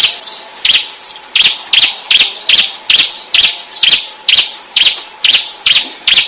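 Insect-like tutor sound: a continuous high buzz with sharp, evenly repeated chirps about two and a half times a second, used as masteran for training songbirds.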